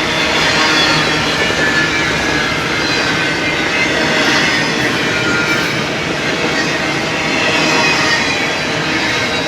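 Freight train cars rolling past on the rails in a steady, loud rumble, with thin high-pitched wheel squeal over it.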